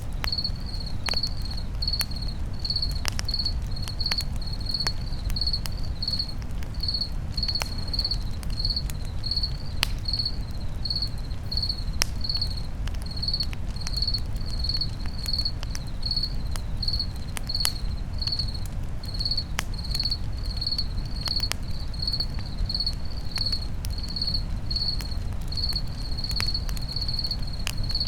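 A cricket chirping steadily, about two chirps a second, over a campfire crackling with scattered sharp pops and a low steady rumble.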